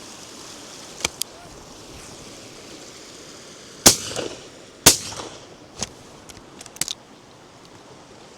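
Two shots from a double-barrelled shotgun, about a second apart: both barrels fired at a driven bird. Fainter, more distant shotgun shots come before and after them, over a steady rush of background noise.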